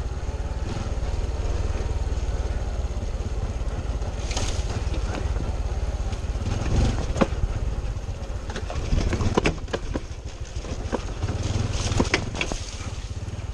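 Honda CT125's single-cylinder engine running steadily as the bike rides a rough trail, with a few sharp knocks from the bike jolting over bumps, about halfway through and again near the end.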